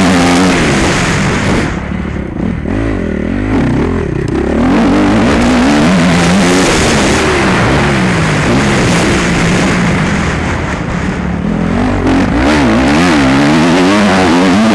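Motocross motorcycle engine running hard, its pitch rising and falling repeatedly as the throttle opens and closes. It eases off for about two seconds near the start, then pulls hard again.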